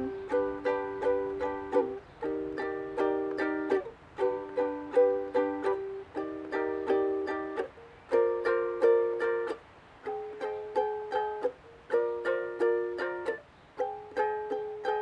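Instrumental music: a plucked string instrument strumming chords in a steady rhythm, the chord changing about every two seconds with brief pauses between some phrases.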